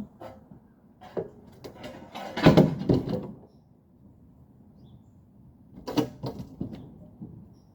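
Knocking and rattling of a vintage refrigerator being handled, with a loud clatter about two and a half seconds in and another burst of knocks near six seconds.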